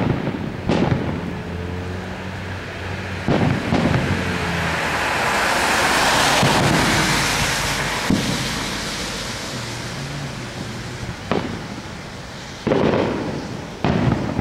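Distant aerial fireworks shells bursting: about eight sharp booms, two near the start, two about three seconds in and several more in the second half, with a long hiss that swells and fades in the middle.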